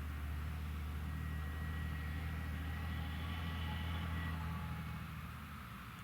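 Krone Big X 1100 forage harvester's V12 engine running steadily under load, a deep continuous drone with a faint high whine on top. The drone eases slightly near the end.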